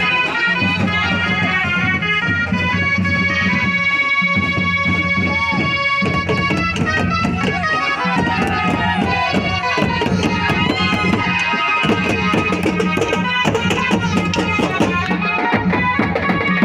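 Traditional Indian folk music: a melody instrument playing stepping, held notes over dense, steady drumming.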